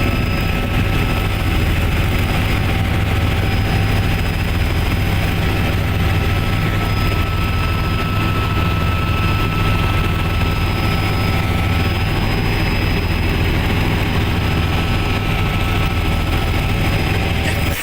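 Helicopter running steadily, heard from on board: a constant deep rotor drone under a steady high turbine whine.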